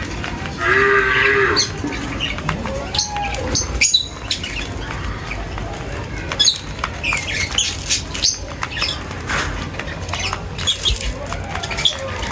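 A flock of birds chirping and squawking, with many short, high calls overlapping. About half a second in, one loud drawn-out animal call lasts about a second.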